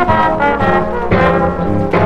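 Big-band swing music with the brass section playing a phrase of loud, punchy notes, trombones and trumpets to the fore.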